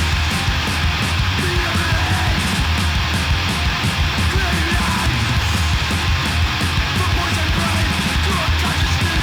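Fast, loud hardcore punk music with distorted electric guitars and rapid, steady drumming with cymbals.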